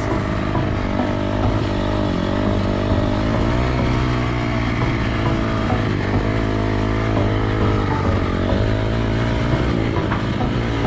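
Dirt bike engine revving up and down as it is ridden on a motocross track, its pitch rising and falling every second or so.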